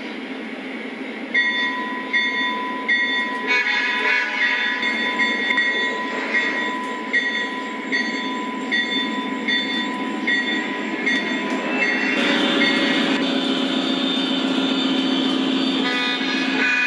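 Sound system of an O-scale MTH Railking model diesel locomotive lash-up playing its diesel sounds after the start-up call: the engine runs with a steady low rumble and a ringing tone that repeats about every 0.7 s. About twelve seconds in, the sound swells louder and fuller.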